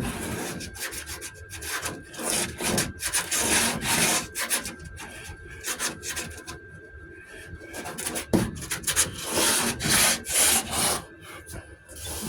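Body filler on a truck door being hand-sanded with a coarse-grit sanding board, in repeated back-and-forth rasping strokes.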